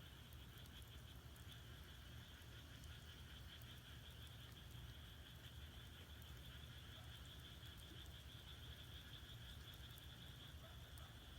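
Faint steady chorus of frogs, a continuous high trilling, with a few faint crackles from firewood burning in a traditional Korean agungi firebox.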